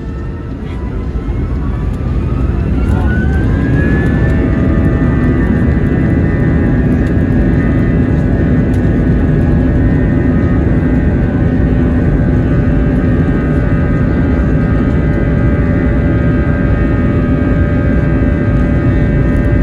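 An Airbus A321-231's IAE V2500 jet engines spooling up for takeoff, heard from inside the cabin: a whine rises in pitch over the first few seconds as the noise grows louder, then holds steady at takeoff power.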